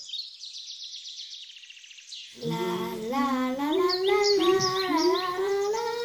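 Rapid high bird-like chirps and trills. From about two and a half seconds in, a child hums a slow wandering tune under them.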